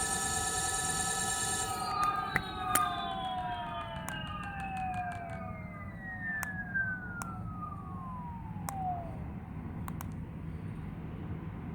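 Brushless direct-drive hub motor whining at a steady pitch, then power cut about two seconds in, so the whine falls steadily in pitch over several seconds as the wheel coasts down, with scattered sharp clicks.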